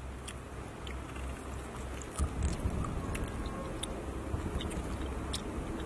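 People chewing and eating, with scattered small clicks over a low rumble that grows louder about two seconds in.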